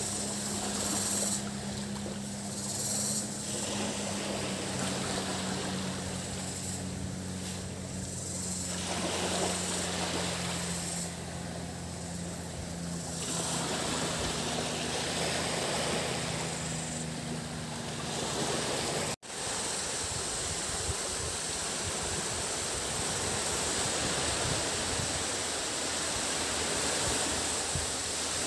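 Surf washing onto a beach, with cicadas buzzing in high swells that come and go. A boat engine drones steadily under it for the first two-thirds. After an abrupt cut about two-thirds in, only the surf and a continuous cicada buzz remain.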